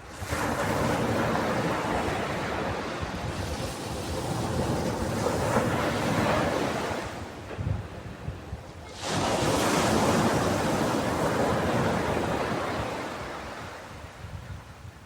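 Sea waves breaking and washing up a beach, in two long surges: one from the start lasting about seven seconds, and another that comes in suddenly about nine seconds in and slowly fades away.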